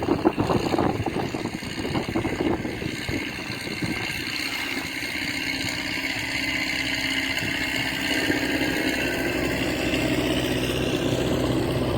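Gusty wind buffeting the microphone for the first few seconds, then a steady engine hum that holds to the end.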